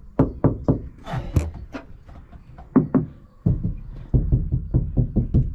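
Repeated knocking on the sheet-metal body panels of a van, a few knocks a second at first, then a quicker, heavier run of thuds from about halfway through, testing how loud the panels sound.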